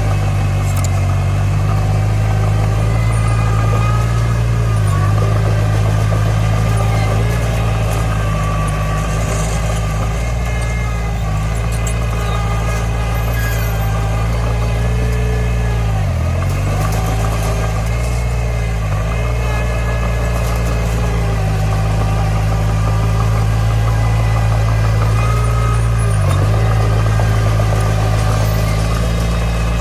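Komatsu D20 bulldozer's diesel engine running steadily and loud, its pitch dipping briefly a few times as it takes load.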